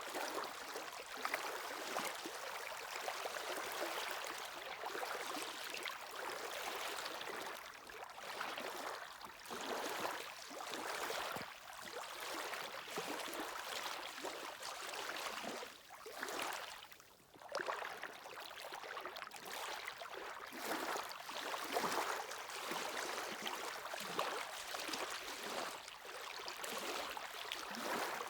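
Sea waves washing onto the shore in steady, overlapping surges, with a brief lull about two-thirds of the way through.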